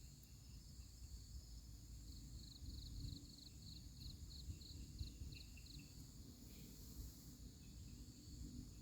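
Faint night insect chorus: crickets trilling steadily at a high pitch. In the middle, one insect or animal gives about a dozen quick chirps, roughly three a second. A low rumble sits underneath.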